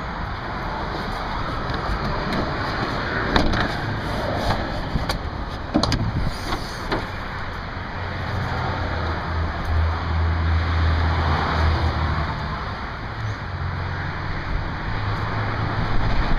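2007 Ford F-150 pickup's engine running with a low rumble that grows louder in the middle and eases off again, with a couple of sharp knocks early on.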